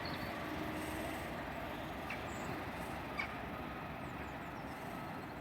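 Steady rumble of a train moving away along the line, slowly fading, with a few faint high bird chirps.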